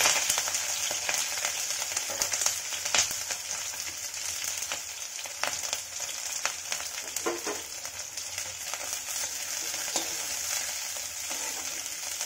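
Split green chillies sizzling in hot mustard oil in a metal kadhai, with scattered sharp clicks and pops as they are stirred. The sizzle is loudest at the start, just after the chillies go in, then settles to a steadier, quieter fry.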